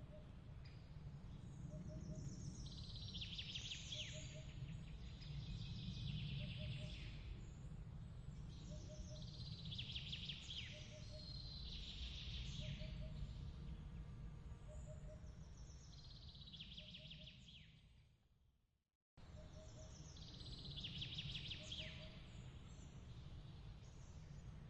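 Songbird phrases, short rapid trills repeating every two to three seconds, over a steady low rumble, with a faint triple tick recurring about every second and a half. About eighteen seconds in, everything fades out to silence and then starts again abruptly, like a looped ambience track restarting.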